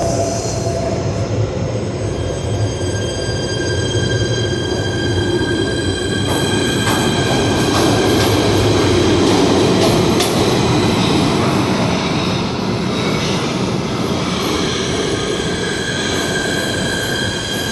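A PATH subway train moving through the station with its wheels squealing: several steady high-pitched squeal tones ride over the continuous rumble of the running gear. The rumble grows louder towards the middle.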